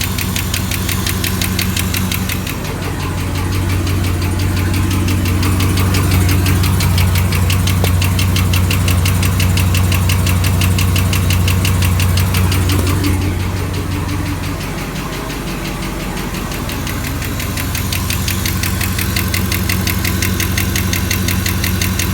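Chevrolet Camaro SS's 6.2-litre L99 V8 running steadily with a fast, even ticking from the valvetrain, which the owner takes for lifter tick.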